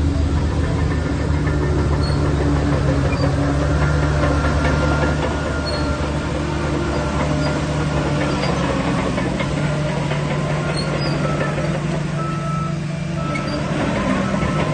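Shantui DH17C3 bulldozer's diesel engine running steadily under load, its pitch shifting a little as it works, with thin squeals coming and going above it.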